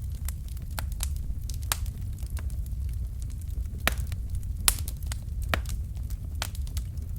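Wood fire in a fireplace: logs burning with a steady low rumble of the flames and irregular sharp crackles and pops, two louder pops about four and five seconds in.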